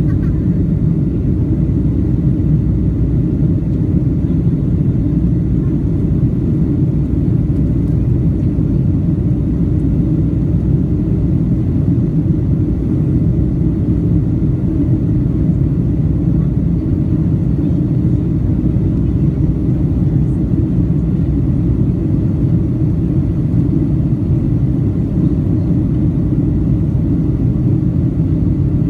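Steady low rumble of an airliner in flight after takeoff: engine and airflow noise, heard from inside the cabin.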